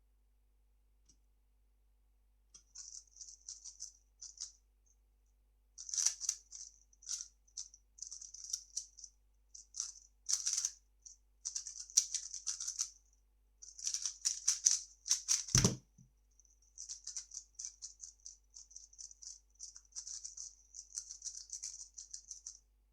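A 3x3 speedcube being turned fast by hand: rapid clicking and rattling of its layers in quick runs, with short pauses. About two-thirds of the way through comes a single dull thump, then the fast turning starts again.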